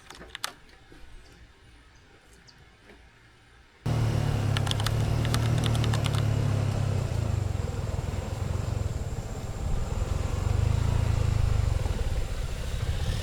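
A few faint clicks over near quiet, then an abrupt cut about four seconds in to the steady low rumble and road noise of a moving vehicle.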